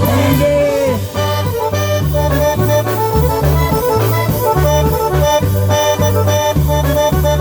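Live polka band playing an instrumental passage led by accordion, over a bouncing oom-pah bass line.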